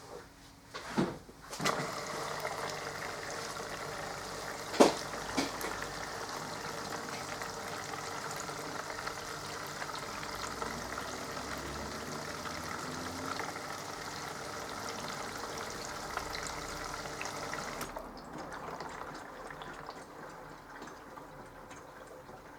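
Mini washing machine filling with water: after a few clicks, a steady rush of incoming water that drops away about 18 seconds in.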